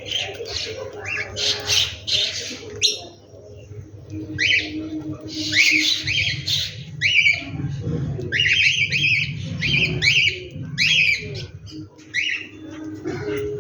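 A chorus of birds calling: many short, sharp calls repeated in quick runs, with a brief lull about three seconds in, over a low steady hum.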